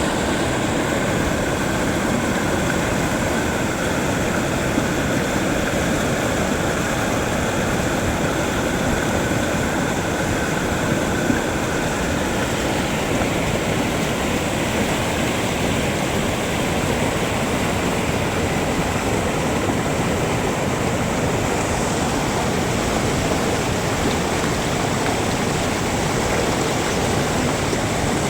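Himalayan mountain river rushing over rocks, a steady loud roar of fast-flowing water.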